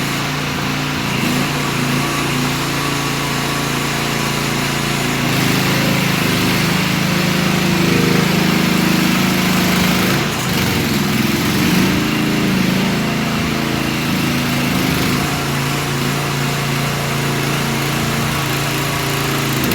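Small Briggs & Stratton 13.5 hp gasoline engine of a mini excavator running steadily. About five seconds in it speeds up and runs higher and louder, wavers briefly around ten seconds, then settles back to the lower speed near sixteen seconds.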